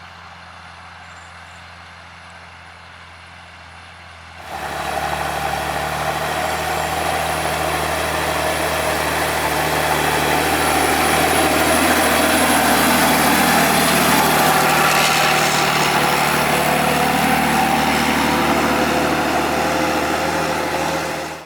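Large farm tractor's diesel engine running steadily, faint at first, then suddenly much louder about four seconds in. It swells towards the middle, eases slightly, and cuts off suddenly near the end.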